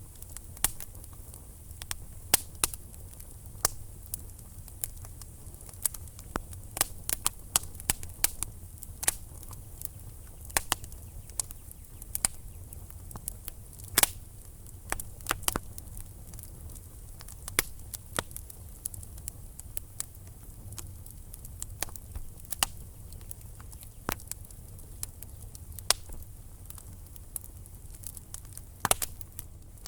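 Wood fire crackling in a fireplace: irregular sharp pops and snaps, sometimes several a second, over a low steady rumble.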